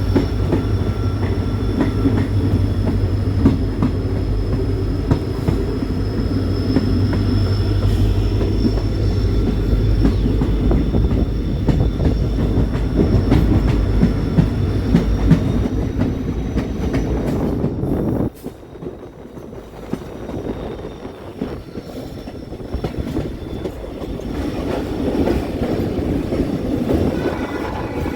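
Train running on the rails: a heavy low rumble with rattling wheel noise and a faint high, steady wheel squeal. About two-thirds of the way through the sound drops suddenly to a quieter run, which builds up again toward the end.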